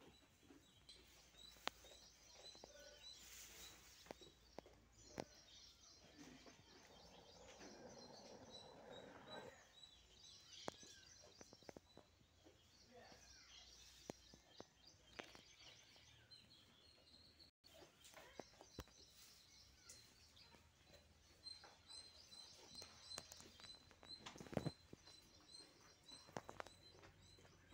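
Faint background of small birds chirping, with scattered soft clicks and knocks.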